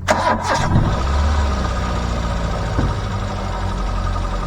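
A clatter at the start, then a motor vehicle engine running steadily with a low rumble.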